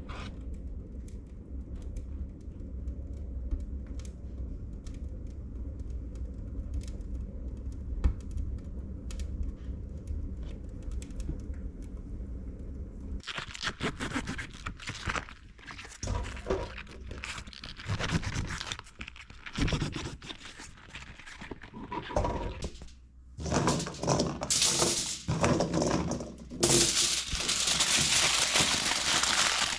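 Fireplace being lit: faint scattered crackles over a low rumble, then from about halfway louder, irregular crumpling and crackling.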